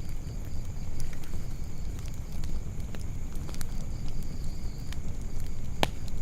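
Campfire crackling: scattered snaps and pops over a low steady rumble, with one sharp pop near the end.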